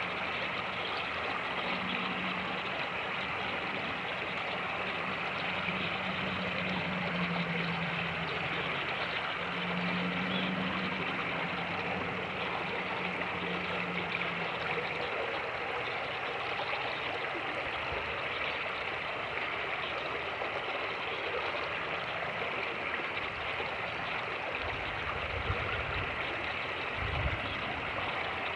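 Fast-moving creek rushing steadily. For the first half a low, steady engine hum sits under the water and then fades out, and near the end there are two short low thumps.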